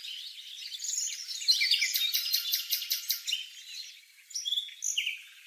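Whitehead's broadbill calling: a jumble of chirps and short gliding notes, with a fast, evenly spaced trill of ticking notes about two seconds in that lasts just over a second.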